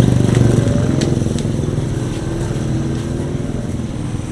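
A motorcycle engine running close by, loudest at the start and fading as it moves away.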